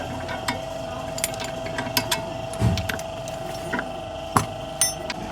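Hand tools clinking and knocking on car parts during a wheel-bearing repair: scattered sharp clicks and knocks, one low thump about two and a half seconds in, over a steady hum.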